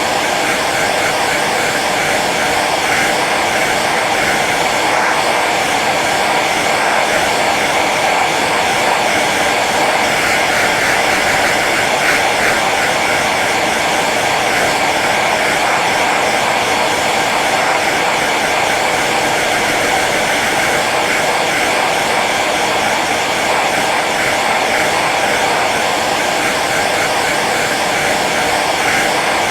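Hair dryer running on its low setting: a steady, unchanging rush of blown air with a motor hum.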